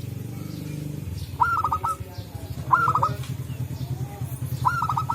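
Zebra doves calling: three quick runs of about four short, clipped notes, about a second and a half in, near the middle and near the end. Underneath runs a low, rapidly pulsing purr.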